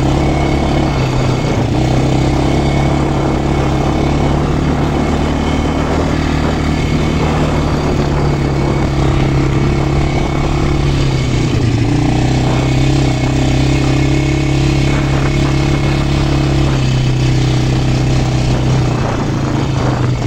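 Quad bike engine running steadily under way, its note shifting slightly now and then with the throttle.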